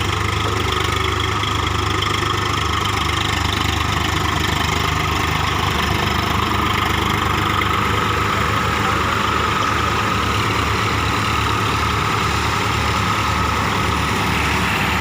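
Tractor's diesel engine running steadily, with an even low throb that becomes clearer about six seconds in.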